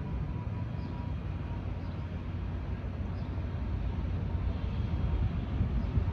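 Low, steady rumble of jet aircraft noise, swelling a little toward the end.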